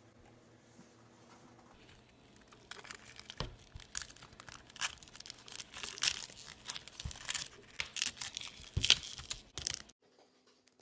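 Irregular crinkling and tearing, a dense run of crackles and clicks that starts about three seconds in and cuts off abruptly near the end.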